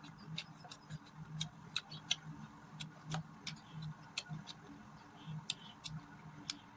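Close-miked chewing of mutton curry and rice: a steady chewing rhythm with many sharp, wet mouth clicks and smacks.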